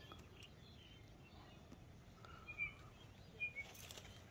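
Quiet outdoor ambience with a few faint, short bird chirps about halfway through.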